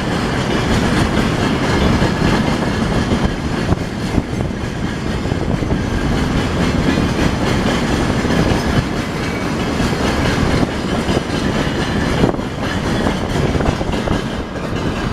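Freight train wagons rolling past close by, wheels clattering steadily over the rail joints.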